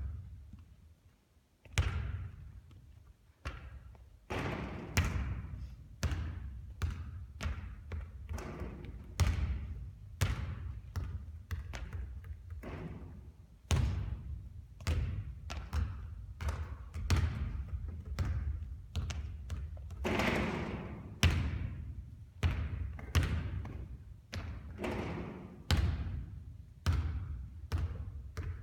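A basketball bouncing again and again on a hard court floor, a sharp thud about once a second or a little faster, each bounce followed by a short echo.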